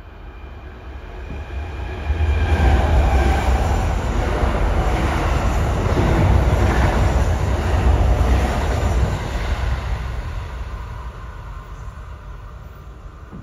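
Kintetsu Osaka Line electric train passing through the station without stopping, close by. The rumble builds over the first two seconds, stays loud for about eight seconds, then fades away.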